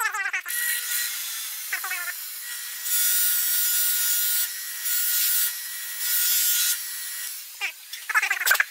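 A small power tool runs with a steady whine and a hissing grind, louder for stretches about three, five and six seconds in as it bears on the work. This is the sharpening or polishing of a metal RC boat propeller. Short wavering high cries come at the start, around two seconds in and near the end.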